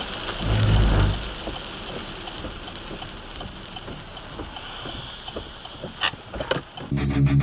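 Steady wind and road noise of a moving vehicle, with a heavy low rumble lasting about half a second near the start and a few sharp knocks near the end. Electric guitar music starts just before the end.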